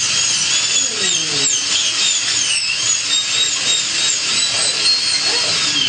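Dentist's drill whining at high pitch, the pitch repeatedly dipping and recovering as if biting into a tooth. It starts abruptly and runs without a break.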